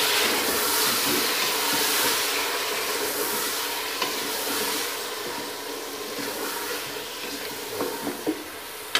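Sliced tomatoes and fried onions sizzling in hot oil in a deep pot as a wooden spoon stirs them. The sizzle slowly dies down, with a light knock of the spoon about four seconds in and a few more near the end.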